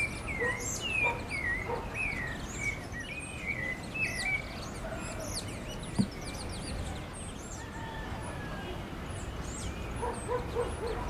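Several wild birds calling at once: for the first four seconds one bird repeats a wavy, warbling phrase, while many short high chirps go on throughout. A single sharp click comes about halfway through, and a quick run of short, lower-pitched calls starts near the end.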